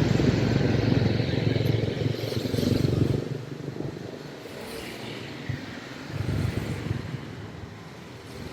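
Street traffic with motorbike engines passing: a loud low rumble for the first few seconds, fading, then swelling again briefly about six seconds in.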